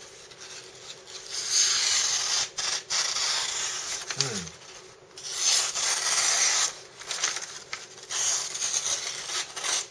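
A knife blade rubbed or scraped in four long strokes, each lasting one to two seconds with short pauses between, as the edge is worked or checked for micro burrs.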